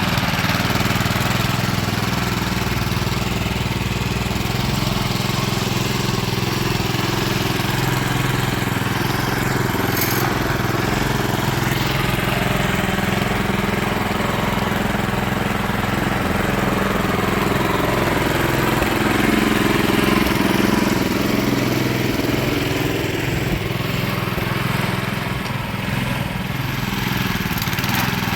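Small engine running steadily, its pitch and loudness rising a little about twenty seconds in, then easing off.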